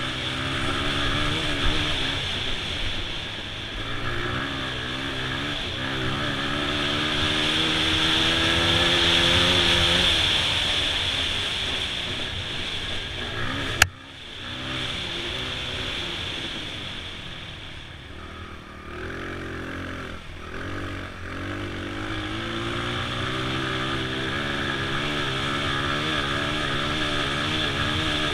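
2002 Honda XR100's four-stroke single-cylinder engine running under load, its revs climbing and falling as the throttle is worked. A sharp knock about halfway through is followed by a drop in engine noise before the revs build again.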